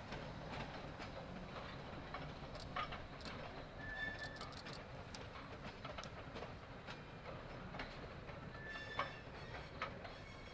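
A slow freight train of tank cars, hauled by a GE 80-ton centercab locomotive, rolling over the rails: irregular clicks and clanks from the wheels and couplers over a low steady rumble, with brief wheel squeals about four seconds in and again near nine seconds.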